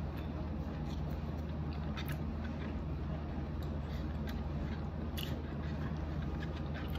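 Close mouth chewing and biting of crisp fried tortilla, with a few short, sharp crackles, over a steady low hum.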